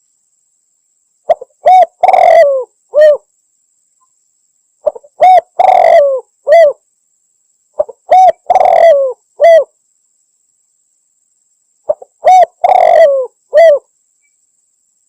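Spotted dove cooing: four repeated song phrases a few seconds apart. Each phrase is a couple of short coos, then a longer, rough coo, then a final short coo.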